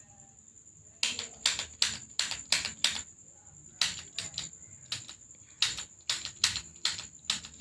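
Sharp clicks in quick runs of five or six, about three a second, from wet-cupping equipment being worked. A steady high thin tone continues beneath them.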